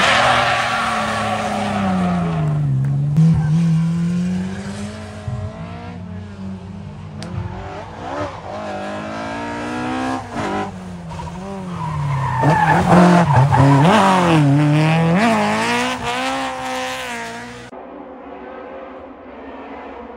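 Rally car engine revved hard up and down again and again, with tyres skidding and squealing. It cuts off abruptly about two seconds before the end, leaving a much quieter sound.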